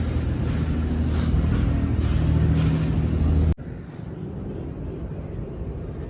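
Steady low hum of a vehicle running, which cuts off abruptly about three and a half seconds in and leaves quieter background noise.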